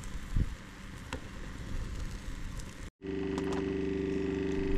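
Wood fire crackling and snapping with a few sharp pops. About three seconds in it cuts off abruptly and is replaced by a louder, steady mechanical hum with several held low tones.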